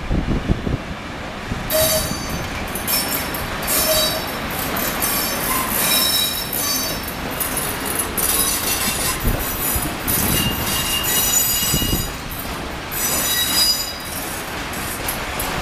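Long freight train of open coal wagons rolling past with a low rumble. From about two seconds in, the wheels squeal in several high-pitched tones that come and go.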